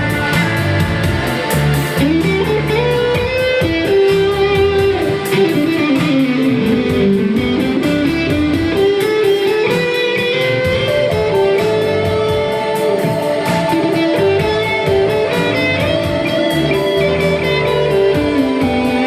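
Live band music led by electric guitar over a steady beat, with a melodic line that slides up and down in pitch.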